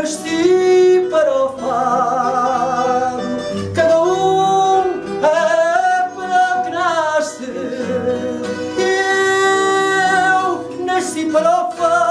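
Fado singing: a voice holding long, ornamented notes with vibrato, accompanied by a Portuguese guitar (guitarra portuguesa) and a viola de fado.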